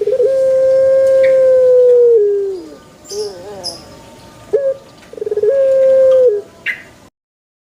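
Puter pelung dove (Streptopelia risoria) cooing two long, drawn-out calls. The first is held on one pitch for about two seconds and slides down at its end; the second, about five seconds in, opens with a quick rattle before the held note. A few faint high chirps fall between the calls, and the sound cuts off suddenly about seven seconds in.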